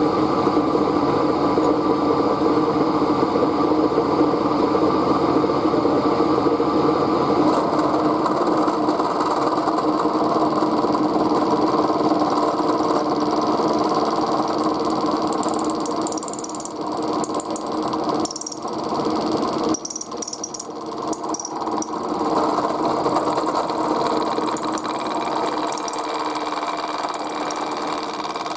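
Machine tool running steadily while cutting a cold rolled steel bar, its motor giving a steady hum. About two-thirds through, the sound dips briefly and some higher-pitched cutting noises come in before the steady running resumes.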